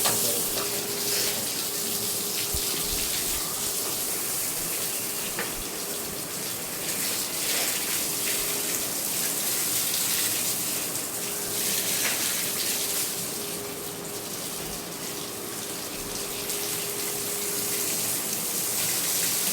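Water running and splashing steadily as an air conditioner's air filter is washed, with a faint steady hum underneath.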